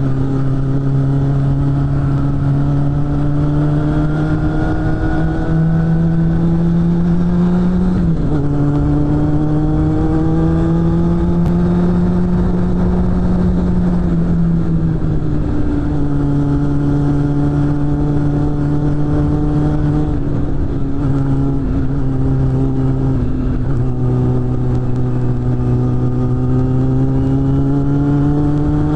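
Suzuki GSF600 Bandit's inline-four engine through a BOS aftermarket exhaust, pulling under load with its note climbing steadily. About eight seconds in the pitch drops sharply at an upshift, then climbs again, eases off for a couple of seconds, and later pulls up again.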